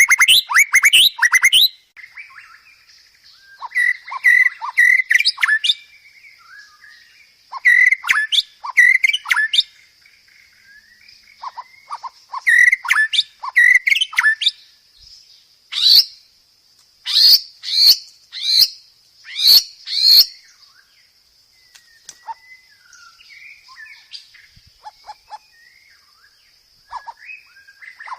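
Songbird song for training white-rumped shamas: bursts of rapid whistled and chattering notes in phrases a second or two long, broken by short pauses, over a steady high-pitched buzz.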